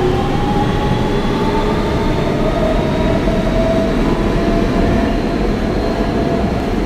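Inside a Kawasaki R160B subway car with Siemens propulsion running along the track: a steady loud rumble of wheels and car noise, with a faint motor whine that fades out about halfway through.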